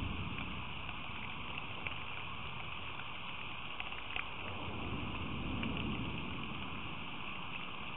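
Steady rain falling, with scattered sharp drops ticking close by. A low rumble swells up and fades back around the middle.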